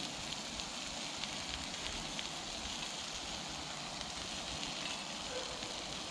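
Burger patties and onion rings sizzling on a cast iron griddle: a steady hiss with faint scattered crackles.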